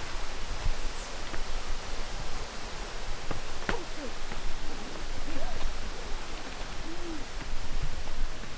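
Rushing water of a rainforest creek and small waterfall, a steady full hiss, with a few faint short calls rising and falling in pitch over it.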